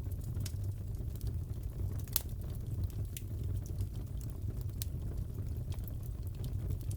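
Fireplace crackling: a steady low rumble of burning wood with scattered sharp pops and crackles, one louder pop about two seconds in.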